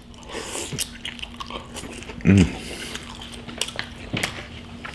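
Close-miked chewing of a mouthful of fried mac and cheese ball, with many small wet mouth clicks and smacks. A short hum from the eater about two seconds in is the loudest sound.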